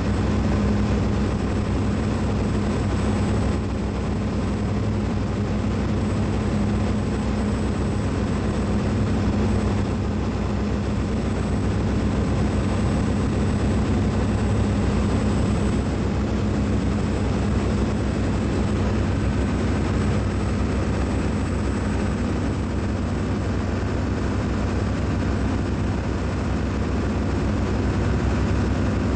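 Steady low mechanical drone and rumble with a hum and a faint thin high whine, unchanging throughout.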